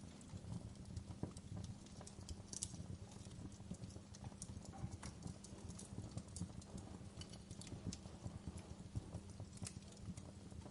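Log fire crackling, with frequent irregular sharp pops and snaps over a low steady rumble of burning flames.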